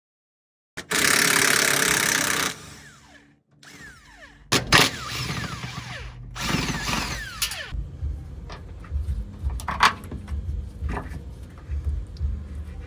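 A power tool runs in two long bursts on the exhaust fasteners, the pitch falling as it spins down, followed by scattered metallic clicks and knocks of tools on hardware.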